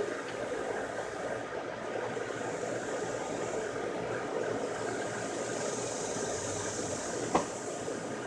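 Steady rushing noise of a strong wind storm, with a brighter hiss for a few seconds in the middle and a single sharp knock about seven seconds in.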